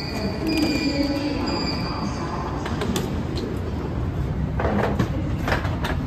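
Steady low hum of a metro platform and train carriage while boarding through open platform screen doors. A short low tone sounds about half a second in, and a few sharp clicks or knocks come about five seconds in.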